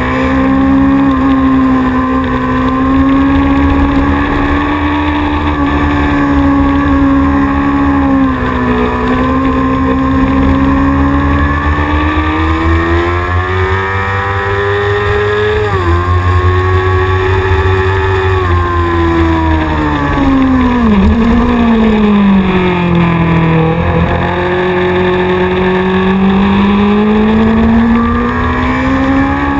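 Onboard sound of a racing motorcycle's engine running hard at high revs, its pitch climbing slowly, dropping sharply about sixteen seconds in as it shifts gear, then falling away as it slows for a corner around twenty seconds in before climbing again.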